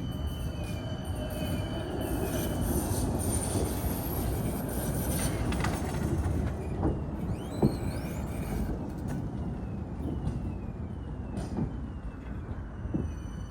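A 71-931M Vityaz-M low-floor tram running along the track, heard on board: a steady low rumble of wheels on rail with a few sharp knocks, the loudest about eight seconds in. A brief rising wheel squeal comes about seven to eight seconds in.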